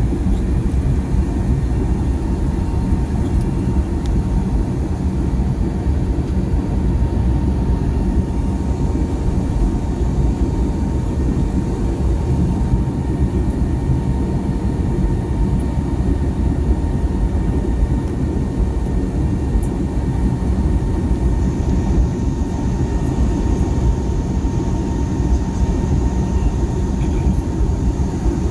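Steady cabin noise inside an Airbus A320neo: a continuous low rumble of engines and airflow with a faint steady whine.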